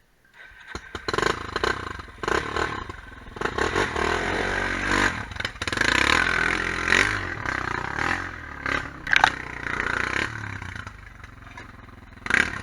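Quad bike engine revving up and down repeatedly, mixed with clattering and scraping, starting abruptly about half a second in.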